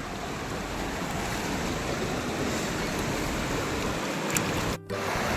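Steady rushing of a stream swollen and muddied by rain, flowing hard; the sound cuts out for an instant near the end.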